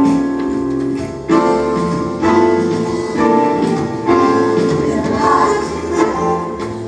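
Choir singing a gospel song with keyboard accompaniment, held chords changing about once a second.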